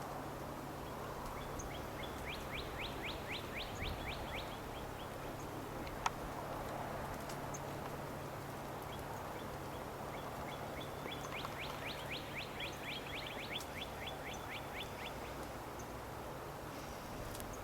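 A small songbird sings a trill of quick down-slurred notes, about seven a second, twice: about a second in and again about ten seconds in, each time for some four seconds. A steady background hiss runs under it, with one sharp click about six seconds in.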